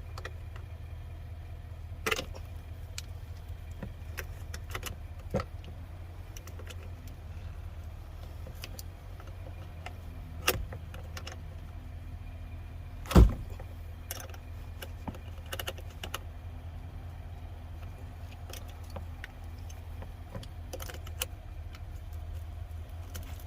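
Scattered metallic clicks and clinks of hand tools as a fitting is tightened, with one louder knock about 13 seconds in, over a steady low hum.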